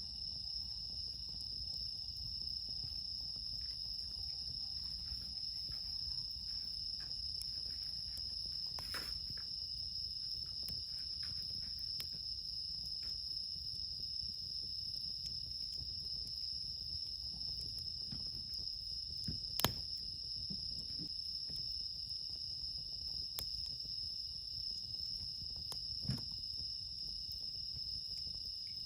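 Bell crickets and other night insects trilling in a steady, high-pitched chorus, with a wood campfire crackling now and then. The sharpest pops come about two-thirds of the way through and again a little later.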